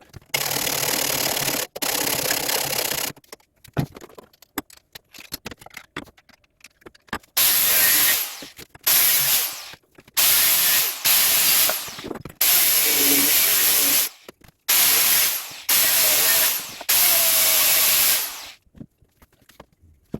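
Angle grinder cutting into the motorcycle's steel frame in about ten short bursts of one to two seconds each, with a pause of a few seconds after the first two.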